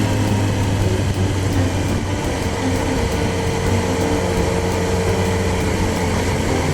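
Kawasaki Z1000's inline-four engine running while riding, its pitch holding fairly steady and easing down slightly, over a steady rush of wind noise.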